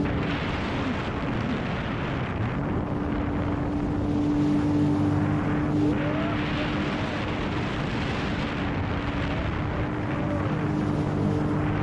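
Sea-Doo GTX Pro 130 jet ski's three-cylinder Rotax engine and jet pump running steadily under way, a constant whine over the rush of water and wind.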